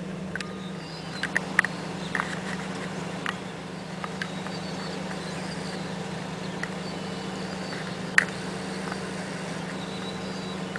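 A vehicle engine idling with a steady low hum, with a few sharp clicks, the loudest about eight seconds in, and brief high chirps scattered through.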